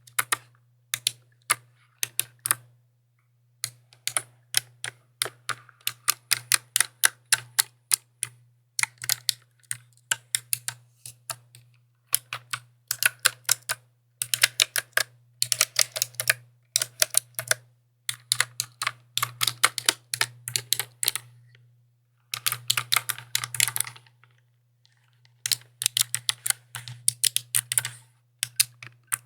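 Mechanical keyboard being typed on: quick runs of sharp key clicks in bursts, broken by short pauses, over a faint steady low hum.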